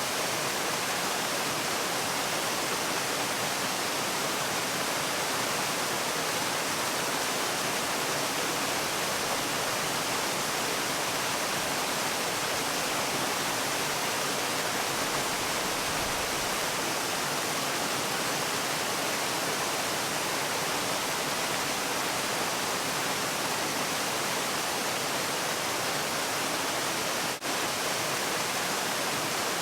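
Steady rushing of a waterfall, an even white-noise-like roar with no change in it, broken by a very brief dropout near the end.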